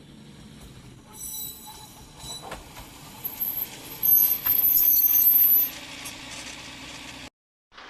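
Tarumi Railway Haimo 330 diesel railcar moving slowly over yard track, its wheels squealing high and loud from about three to six seconds in. The sound cuts off suddenly near the end.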